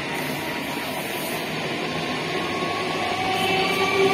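An electric multiple unit train's coaches rolling past with a steady rumble of wheels on rail and a faint motor whine, getting louder toward the end.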